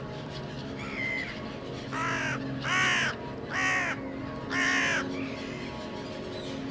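A bird giving four harsh, cawing calls in a row, about a second apart, after a fainter call about a second in.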